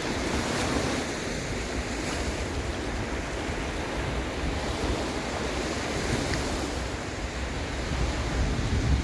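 Sea waves washing steadily, with wind buffeting the microphone in a low rumble that swells near the end.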